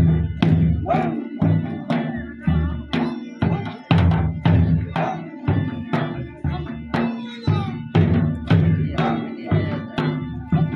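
Drumming for an attan dance, with a steady, driving beat of about two heavy strokes a second and lighter strokes between, over a faint held melodic tone.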